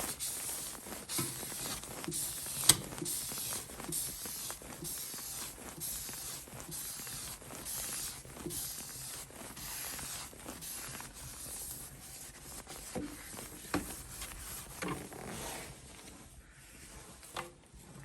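Wood fire burning in a fireplace, crackling and popping irregularly, with one sharp pop about three seconds in.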